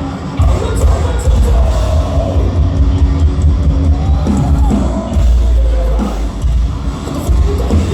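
Metalcore band playing live at high volume: heavy rock music with pounding drums and yelled vocals.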